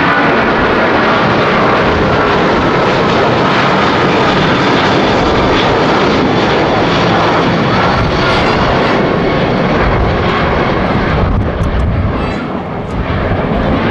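Boeing 777-300's twin turbofan jet engines at takeoff thrust: a loud, steady jet roar with a faint whine in it that fades during the first half. The roar dips briefly near the end.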